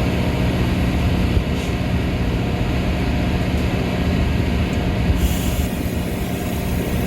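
Metra commuter train's steady rumble with a low hum. A hiss comes in about five seconds in.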